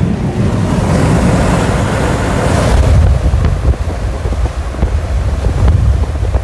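Strong wind buffeting the microphone: a heavy low rumble throughout, with a hissing gust over about the first three seconds that then eases.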